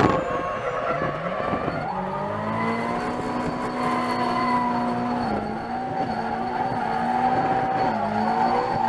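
Drift car engine held at high, steady revs while the tyres squeal through a slide; the engine pitch dips briefly a little after five seconds and again near eight seconds, then climbs back.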